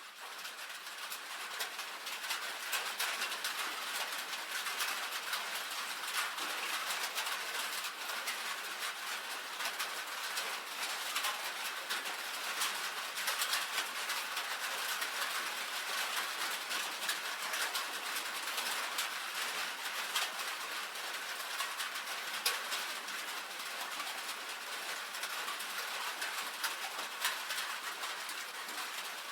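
Steady rain on a tin roof: a dense patter of many small drop impacts on the metal sheeting, fading in over the first couple of seconds.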